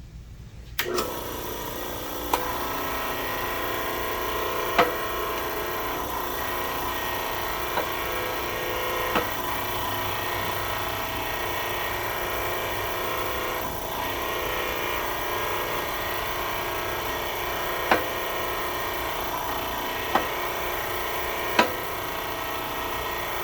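Machine running steadily while a 1/4-inch keyway broach is driven through a pulley bore on its second cutting pass, with a sharp click every few seconds.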